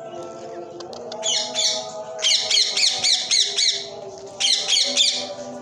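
Indian ringneck parakeet screeching: shrill calls repeated quickly, about four a second, in three bouts, the longest in the middle.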